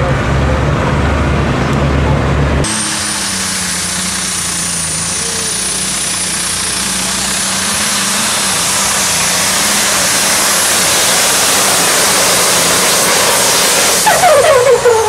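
A pulling tractor's engine at full power during a run down the track. A loud rushing noise carries a steady high whine that rises slowly in pitch. Before it, a deep low rumble cuts off abruptly about three seconds in.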